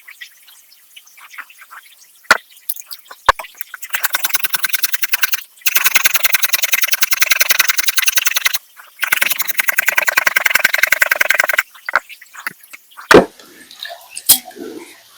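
Rapid, evenly spaced strokes of a kitchen utensil in three runs of a few seconds each, with a few single knocks before them and a heavier knock near the end.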